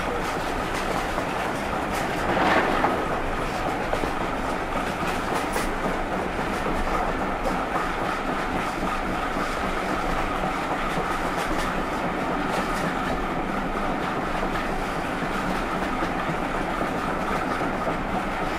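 Railway coach running steadily along the track, heard from on board: a continuous rolling rumble with faint irregular clicks, and a brief louder rush about two and a half seconds in.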